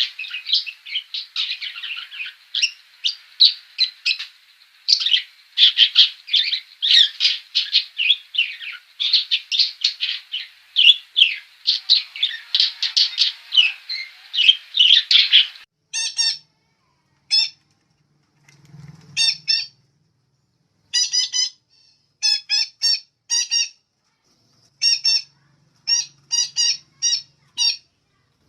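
Songbird chirping in a fast, dense run of high twittering notes. About sixteen seconds in it changes to short, separate calls in clusters of two to four with pauses between.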